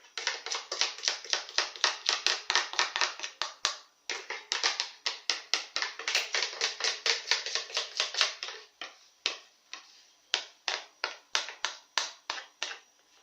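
Quick repeated scraping strokes, about four a second, of a utensil scraping the last cake batter out of a blender jar into the pan. There is a brief pause about four seconds in, and the strokes come further apart near the end.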